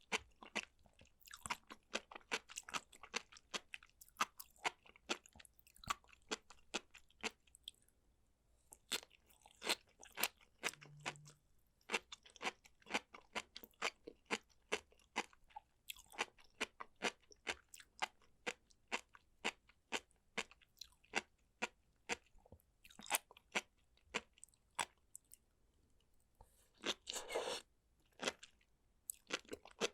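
Close-miked eating sounds: chewing and biting food, with a dense run of sharp crunches and clicks broken by a few short pauses, and a louder cluster of chewing noises near the end.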